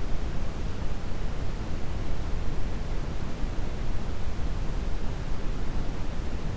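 Steady brown noise: an even, deep rushing hiss, strongest in the low end, with no changes or events.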